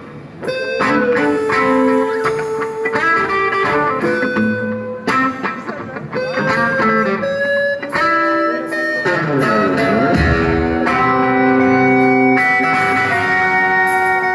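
Electric guitar playing an improvised solo at a rock concert: single melodic lines with long held notes, and string bends sliding the pitch about two-thirds of the way through.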